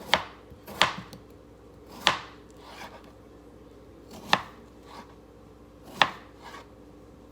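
Knife slicing through raw peeled potatoes and striking the cutting board, making about five sharp knocks spaced irregularly a second or two apart.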